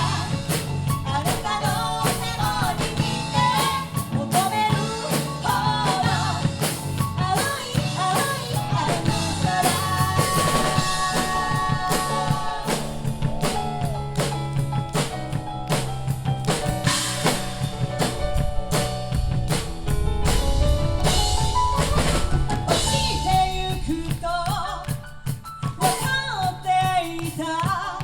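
Live band playing a pop song: full drum kit with snare and bass drum driving it, over bass and melody lines, with singing.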